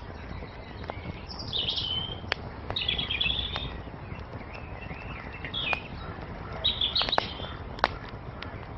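Wood fire crackling with sharp pops over a steady low rumble, while songbirds chirp in short bursts of song four or five times.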